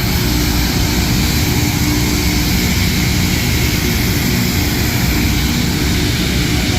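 LORAM rail grinder grinding the rail: a loud, steady hiss over the low drone of its diesel engines.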